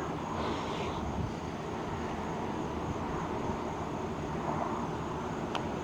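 A putter strikes a golf ball with a single sharp click near the end, over a steady outdoor rumble.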